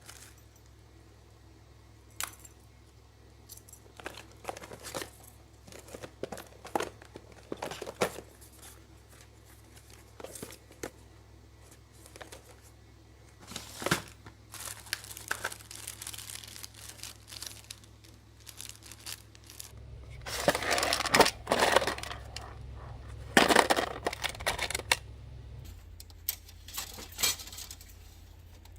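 Scattered handling noises: crinkling, rustling and tearing with short clicks and knocks, growing into a louder stretch of rustling about twenty seconds in.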